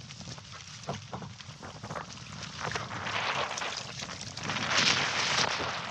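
Strong gusting wind rushing over the microphone, swelling and easing, with a few short knocks and splashes from the canoe on rough water.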